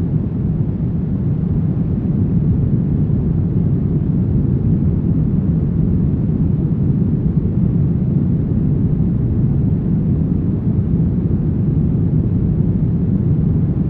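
Brown noise: a steady, deep rushing hiss weighted to the low end, with no change or events.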